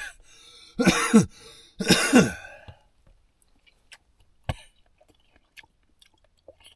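A man coughs twice in quick succession, harsh throaty coughs with a voiced edge. A few faint clicks follow, one sharper knock about four and a half seconds in.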